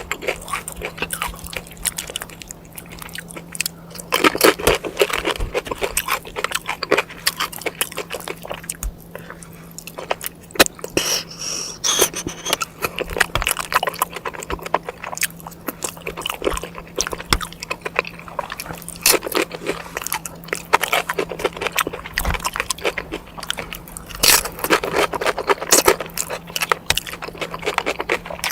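Close-miked eating sounds: chewing with many irregular sharp clicks and smacks, over a faint steady low hum.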